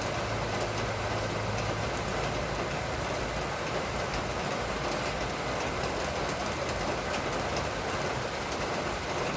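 Steady heavy rain falling, a constant hiss with many small drop ticks through it.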